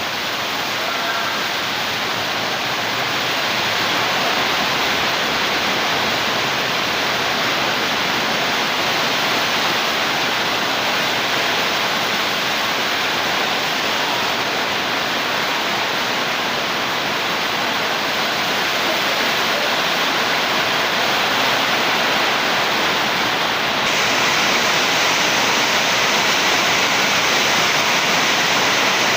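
Steady, loud rushing noise with no pitch or rhythm, which turns brighter and hissier near the end.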